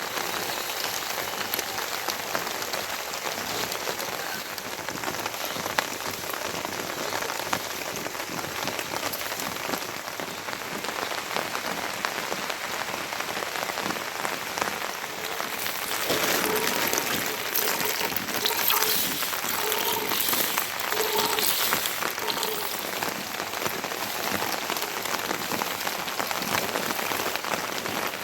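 Heavy rain falling steadily, growing louder a little over halfway through.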